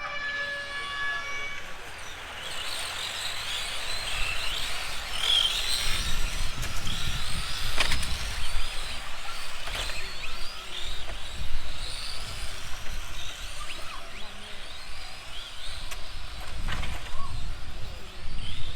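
Electric radio-controlled racing trucks running on a track, their motors whining up and down in pitch as they accelerate and brake, with a few sharp clicks. A brief steady tone sounds at the very start.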